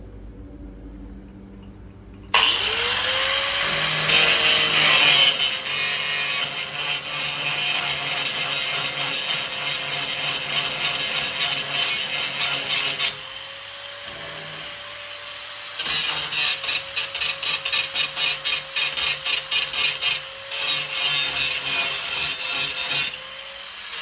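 Angle grinder spinning up about two seconds in and grinding steel. In the middle it lifts off and runs free for a few seconds, then bears down again in rapid short strokes.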